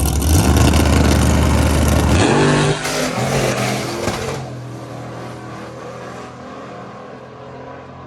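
Drag-racing car engine at full throttle, accelerating hard, then fading steadily into the distance as the car runs away down the strip. About two seconds in, the deep rumble drops away and a clearer, higher engine note carries on.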